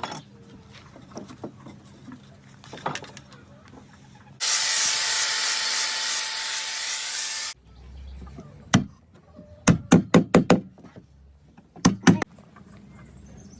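A loud, steady hiss for about three seconds that starts and stops abruptly, then sharp knocks: one, a quick run of about six, and a last pair.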